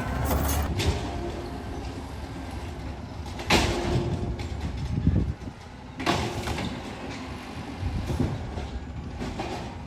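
Garbage truck running, its engine rumbling steadily, with two loud metallic bangs, one about three and a half seconds in and another about six seconds in.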